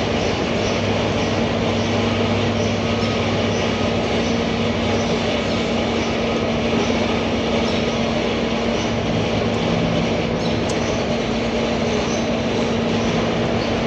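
A machine running steadily with a constant hum and a noisy mechanical drone, with faint high ticks repeating about twice a second.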